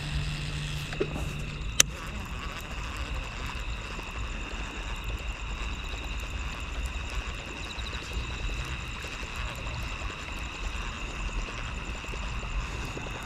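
Steady high chirring of crickets or other night insects, keeping up a continuous drone, with a low rumble underneath. One sharp click about two seconds in.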